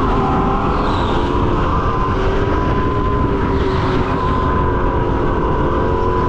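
Racing go-kart running at speed, heard onboard: a loud, steady motor note with a high whine that dips and rises slightly with speed, over heavy rumble and wind noise.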